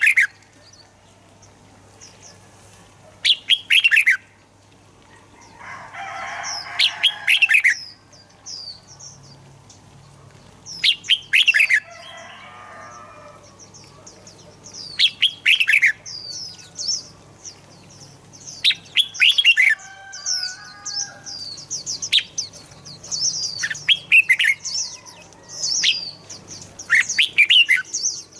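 Red-whiskered bulbul singing loud, short warbled phrases of falling notes, repeated every few seconds. Fainter high twittering runs under the second half.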